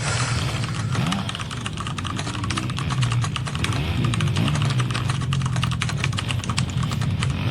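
Rapid, irregular clicking like keys being typed, over a steady low hum.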